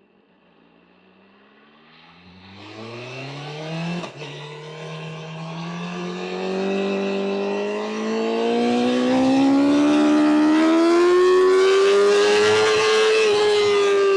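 BMW M1000R's inline-four engine pulling hard under acceleration. It rises quickly, shifts up about four seconds in, then revs climb steadily and grow much louder before easing off slightly near the end.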